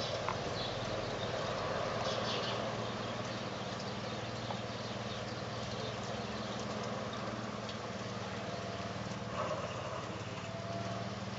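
Steady rain falling, with irregular drops tapping.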